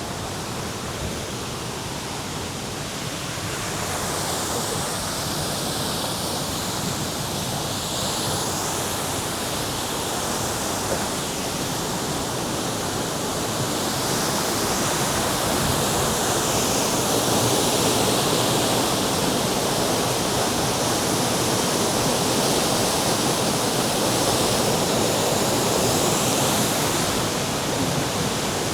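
Waterfall: a steady rush of falling water, growing slightly louder after a few seconds.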